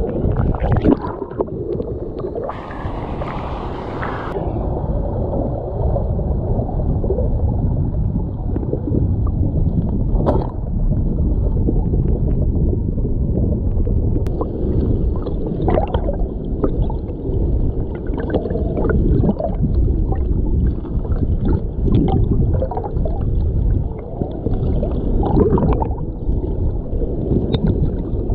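Muffled, gurgling rumble of flowing stream water heard underwater, with a brief brighter splash-like hiss a few seconds in.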